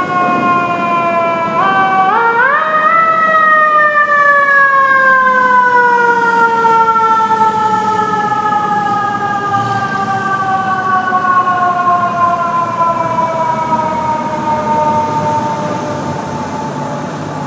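Fire truck siren winding up twice in quick succession, then winding down in one long, slow falling wail as the apparatus responds.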